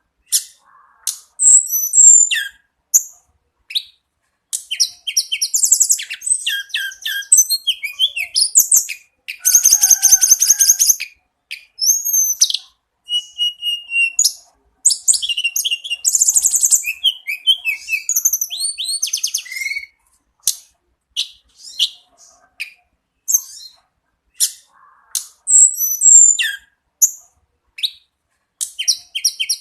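A tledekan gunung songbird singing in full, nonstop song: quick high-pitched phrases of rapid trills, chattering repeated notes and short whistled glides, with a few brief pauses between bursts.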